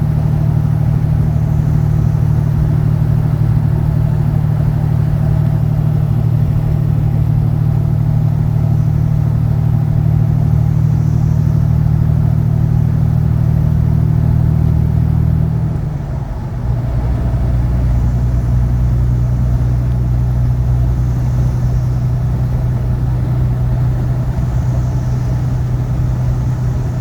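Truck engine droning steadily with road noise, heard from inside the cab. About sixteen seconds in there is a brief dip as the gears change, and the engine note then settles lower.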